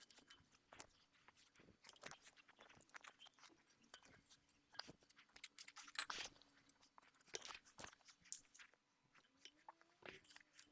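Exhaust heat wrap being wound around a manifold by hand: faint, irregular crackling and scraping of the woven wrap, with a couple of slightly louder scrapes about six and seven and a half seconds in.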